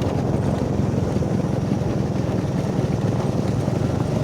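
A motor engine running steadily, with wind noise on the microphone.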